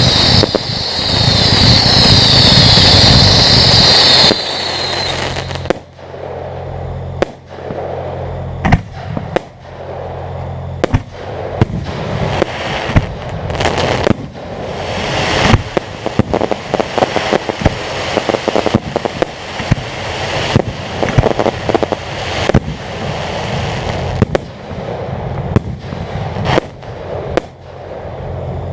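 Fireworks going off: a long run of sharp bangs and crackles at uneven intervals, several a second at times. For about the first four seconds a loud steady high whine with hiss covers them, then cuts off suddenly.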